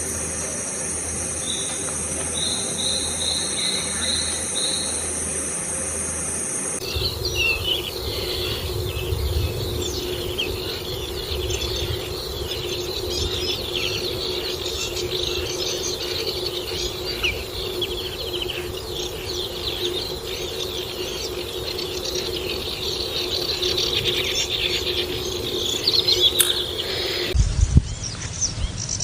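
Nature recording: insects trill steadily while a bird gives a short series of about five repeated notes. After a cut, a dense chorus of many birds chirps over a steady low hum.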